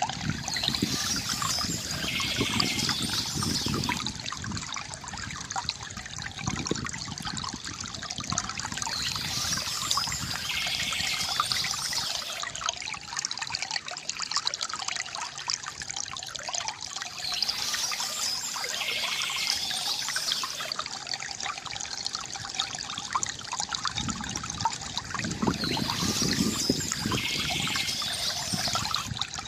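River water gurgling steadily, with small birds chirping softly over it; the same set of chirps comes back about every eight to nine seconds.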